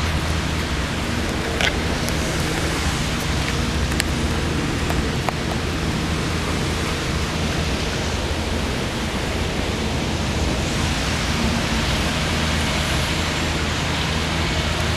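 Steady rain noise, an even hiss with a low hum beneath it, broken by a few sharp clicks.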